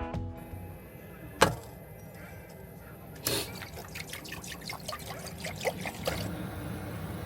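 Liquid trickling and pouring in a run of short splashes and drips, starting after a single sharp click.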